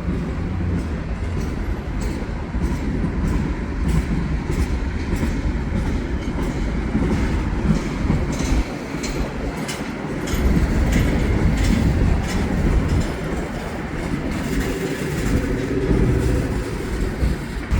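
Freight train cars, mostly tank cars, rolling slowly past: a steady low rumble with the repeated clicking of wheels over rail joints.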